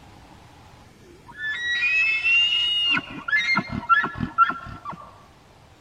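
Bull elk bugling: a long high whistle that rises and then holds for about a second and a half, followed by a run of deep grunting chuckles.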